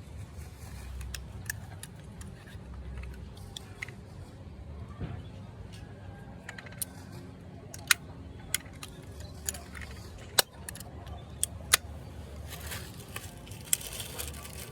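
Irregular sharp clicks and clinks of small hard objects being handled, over a low steady rumble. The clicks grow denser and louder in the second half.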